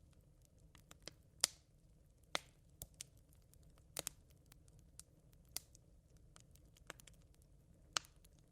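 Campfire of smouldering embers crackling: sparse, irregular sharp pops and snaps over a low steady hiss, the loudest about one and a half seconds in.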